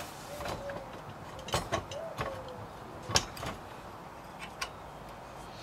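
Scattered sharp metallic clicks and knocks of hand tools on the engine mount bolts as work starts on the seized nuts.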